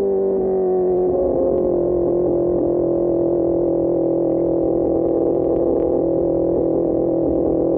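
QJMotor SRK600 inline-four through an Austin Racing GP1R exhaust, running at steady revs under way. Its pitch dips slightly in the first second, then holds.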